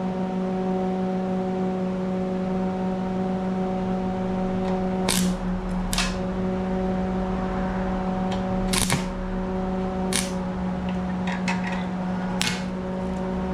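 A welding machine hums steadily at one fixed pitch after switching on. Short, sharp crackles of the arc sound over it several times as tack welds are struck.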